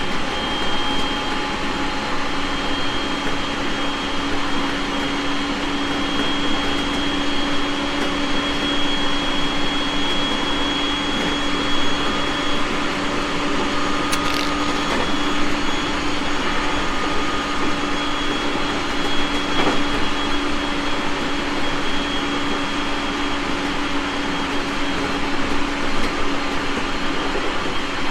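Onboard running noise of a JR East 701 series 1000 subseries electric train travelling steadily: an even, loud rumble with a steady hum through it, and two brief clicks midway.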